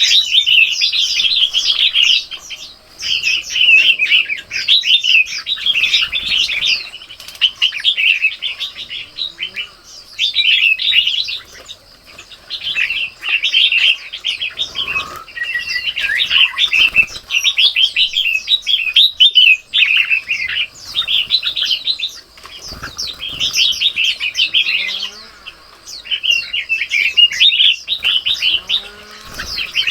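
Small birds chirping busily, with rapid overlapping notes in bursts of a second or two and short pauses between them.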